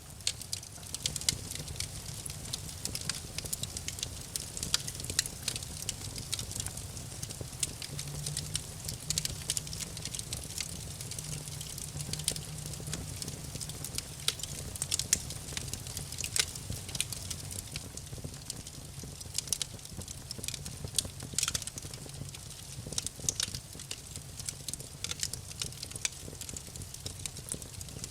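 Wood fire in a fireplace crackling, with frequent sharp pops and snaps over a low, steady rumble.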